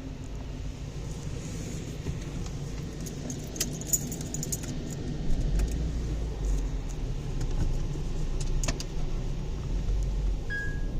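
Car-wash sound heard from inside the car: a steady low rumble with scattered clicks and rattles, and a short beep near the end.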